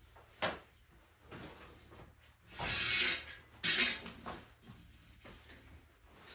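Handling noises during the work: a sharp knock about half a second in, then two louder scraping, rattling noises around three and four seconds in, with lighter knocks between and after.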